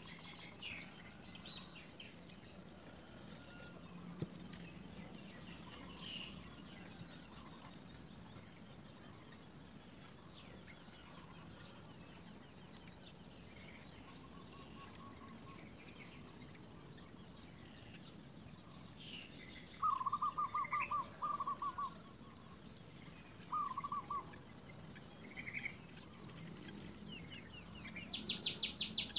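Birds calling: scattered short chirps, with a rapid run of repeated clucking notes about twenty seconds in, a shorter run a few seconds later, and a fast high chatter near the end.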